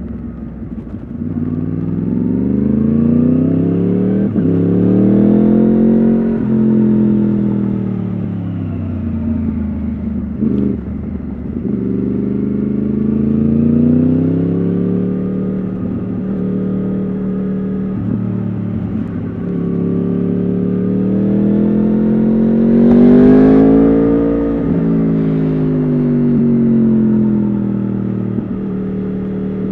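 Yamaha R1 RN22's crossplane inline-four through an Akrapovič exhaust, on the move and accelerating through the gears. The engine pitch climbs, breaks at each shift and falls back several times. There is a quick blip about ten seconds in, and the loudest, hardest pull comes about three quarters of the way through.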